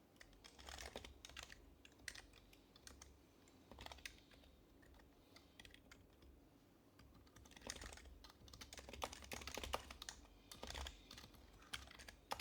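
Typing on an HHKB Professional HYBRID Type-S keyboard with its quieted Topre switches: soft keystrokes in short, irregular flurries, busiest in the second half.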